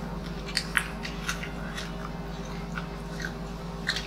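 Close-up eating sounds: mouths biting and chewing crispy pata (deep-fried pork knuckle) and rice, with scattered short crunchy clicks.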